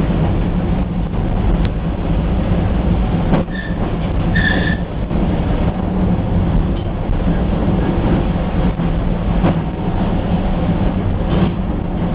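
A train running by with a steady, loud rolling rumble. Two brief high-pitched tones sound about three and a half and four and a half seconds in.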